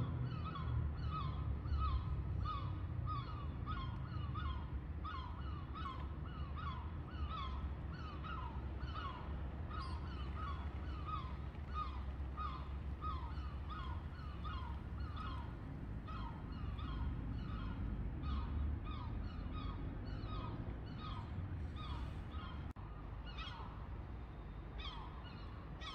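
A bird calling over and over, about two short, harsh, downward-sliding calls a second, over a steady low rumble.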